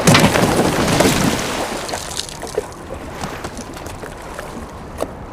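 Water splashing and sloshing as a person thrashes in icy lake water, loud at first and dying down after about two seconds into faint lapping and small knocks.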